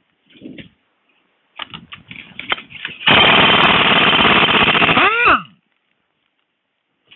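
Impact wrench hammering on a sprocket bolt for about two seconds, then winding down with a falling whine as the trigger is let go, breaking the bolt loose. A few light clicks and knocks come before it.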